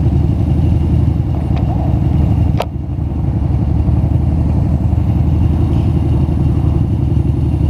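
Honda Shadow V-twin motorcycle engine idling with a steady, even low beat, heard close from the rider's seat. There is a single sharp click about two and a half seconds in.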